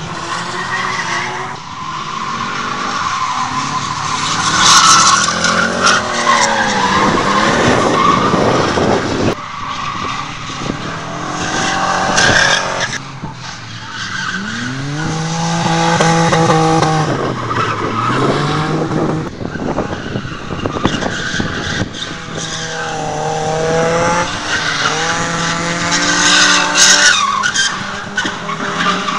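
Drift cars sliding: engines revving up and down again and again, over loud, continuous tyre squeal and screech.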